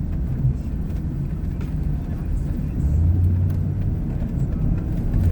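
Vehicle engine and tyres running at low speed while driving through snow, a steady low rumble that grows a little stronger about three seconds in.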